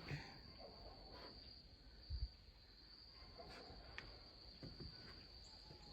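Faint, steady high-pitched chirring of crickets, with a soft low thump about two seconds in.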